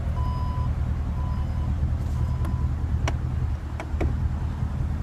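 Porsche Panamera power tailgate closing: its warning chime beeps about once a second, growing shorter and fainter, then a few sharp clicks come about three to four seconds in as the hatch latches. A steady low rumble runs underneath.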